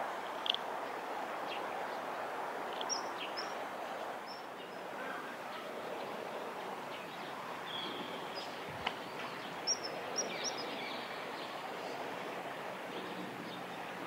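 Steady outdoor background noise with a few short, high bird chirps: one near the start, a few around three to four seconds in, and a quick cluster about ten seconds in. A single sharp tap comes just before nine seconds.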